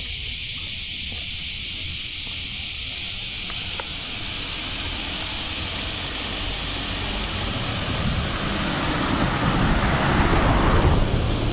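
A car passing: its tyre and engine noise swells over several seconds, peaks near the end and falls away, over a steady high hiss and a low wind rumble on the microphone.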